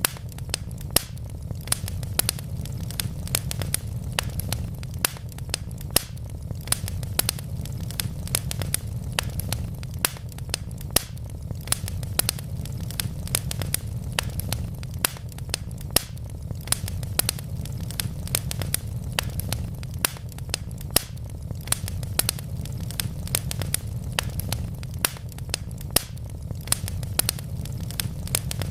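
Wood logs burning in a fireplace, crackling with frequent sharp pops over a steady low rumble.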